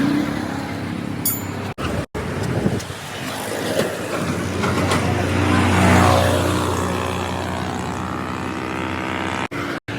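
Motor vehicle engine running steadily with road traffic noise, a vehicle swelling past about six seconds in. The sound drops out briefly near two seconds and again near the end.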